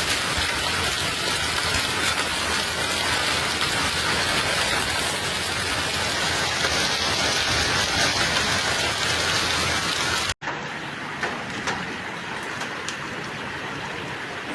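Heavy rain pouring down in a dense, steady hiss. About ten seconds in it cuts suddenly to lighter rain with a few sharp taps.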